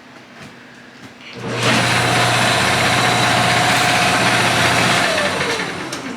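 Wood lathe with a bowl blank chucked on it, switched on: its motor runs at a steady hum with a whine and hiss for about three and a half seconds. It is then switched off, and the whine falls in pitch as the lathe spins down.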